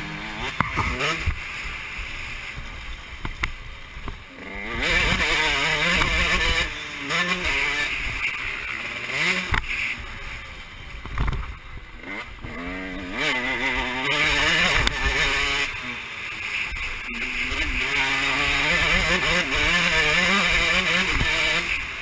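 Motocross bike engine revving up and dropping back again and again as it is ridden, its pitch rising and falling with the throttle and gear changes.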